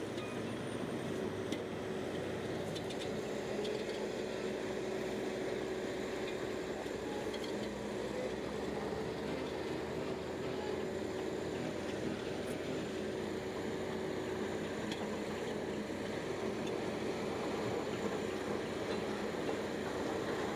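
Shantui bulldozer running steadily while pushing mud, a constant drone with a held tone and a few faint clicks.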